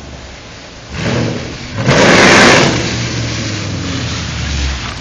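Straight-piped Ford Mustang GT V8, with longtube headers and no mufflers, revving: it goes sharply louder about a second in, is loudest and rawest around two seconds in, then settles to a steady run.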